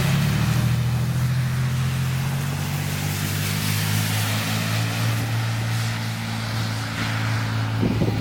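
Diesel locomotive engine running at a steady pitch, with wind noise on the microphone. The engine tone drops away near the end as gusts of wind buffet the microphone.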